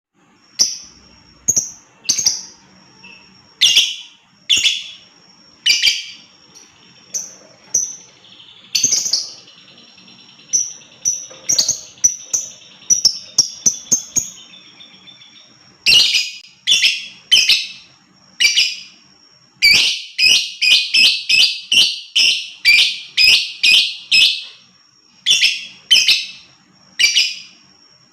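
Lovebird chirping in short, sharp, shrill calls, spaced out at first, then in quick runs of two or three calls a second from about two-thirds of the way in.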